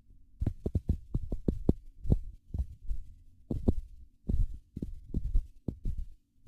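Footsteps of someone walking through a forest, heard as irregular low thumps, a few per second, each with a faint rustle.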